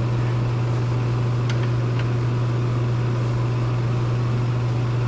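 A loud, steady low machine hum, with a few faint clicks about a second and a half in.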